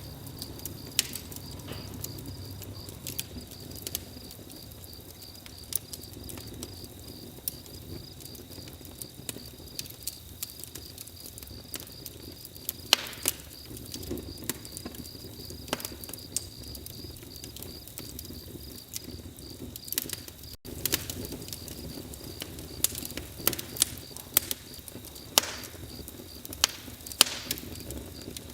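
Campfire crackling, with irregular sharp snaps and pops over the low rush of the flames. A steady high trill runs underneath.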